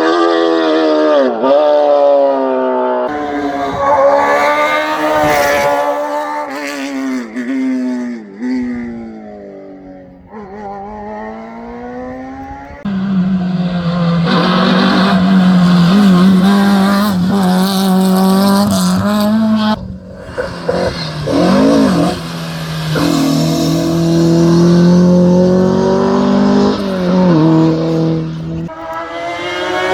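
Rally cars racing flat out: engines rev up through the gears and drop at each shift, with pitch sliding down as cars pass or brake. The sound comes in several short shots that break off abruptly, one after another.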